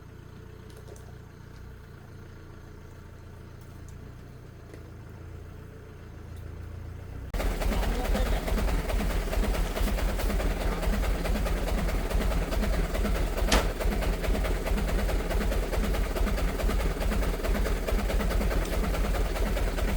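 A motor vehicle's engine running, faint and steady at first; about seven seconds in, a much louder steady engine rumble with road noise cuts in suddenly.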